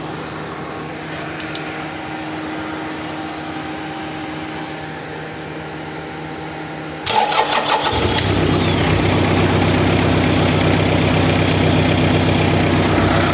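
Toyota 3C four-cylinder diesel engine restarted hot: after about seven seconds of steady background hum, it cranks briefly, catches, and settles into a steady idle.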